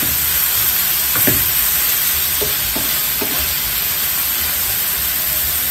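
Ground pork and garlic sizzling in hot oil in a wide frying pan, stirred with a wooden spoon that scrapes and knocks against the pan a few times, loudest about a second in.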